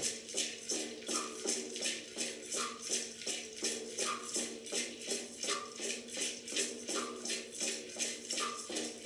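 Background meditation music: a shaker-type rattle beating a steady rhythm of about three strokes a second over a held low drone, with a short higher note recurring every second or so.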